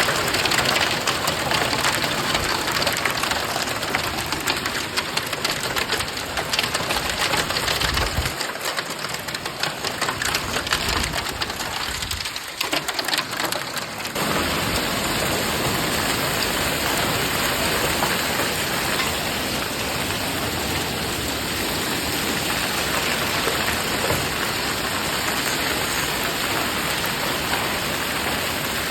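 Heavy rain falling in a steady rush. Many sharp hits are mixed in during the first half, and about halfway through it changes abruptly to a smoother, even downpour.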